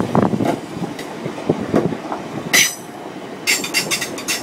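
Class 377 Electrostar electric multiple unit running into the station, with a low rumble. Its wheels click over the rail joints once about two and a half seconds in and in a quick run near the end.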